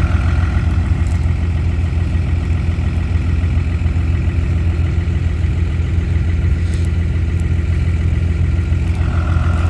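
Truck engine idling steadily, a low, even rumble.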